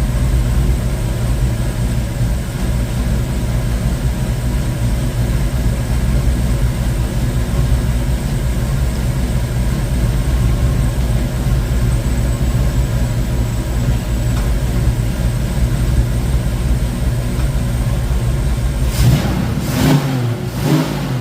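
1972 Ford Mustang Mach 1 V8, fitted with a Crane 2040 cam and a Black Widow Venom muffler on a single 3-inch exhaust, running steadily at idle after its first start with the new parts. Near the end the engine speed rises and falls briefly.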